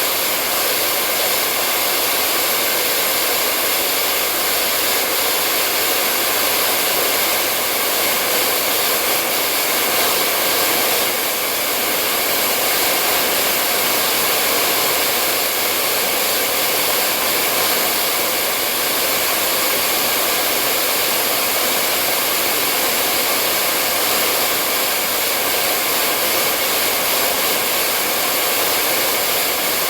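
Hair dryer running continuously at a steady speed, an even rushing whoosh of fan and blown air with a faint steady motor hum.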